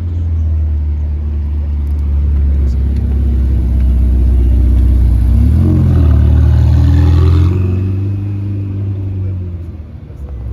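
A car engine running loud and low, its pitch swinging up and back about halfway through, then growing fainter near the end as the car moves off.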